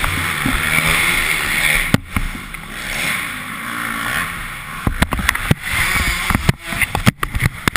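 Steady rushing noise on a GoPro action camera's microphone, then a string of sharp knocks and clicks over the last three seconds, as of the camera being handled just before recording stops.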